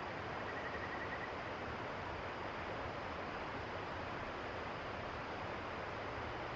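Steady rush of river water, an even hiss that does not change. About half a second in comes a brief, faint, rapid trill of high notes.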